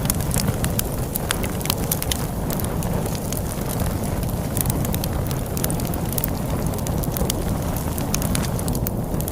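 Wood fire crackling with many sharp, irregular pops and snaps over a steady low rumble of storm wind.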